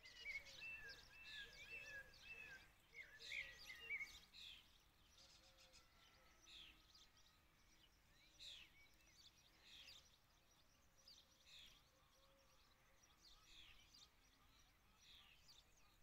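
Faint songbirds calling: a string of short falling chirps, with a warbling song in the first few seconds, over quiet outdoor background noise.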